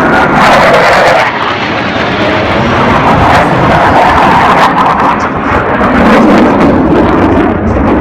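Loud, steady roar of Blue Angels F/A-18 Hornet jets flying past.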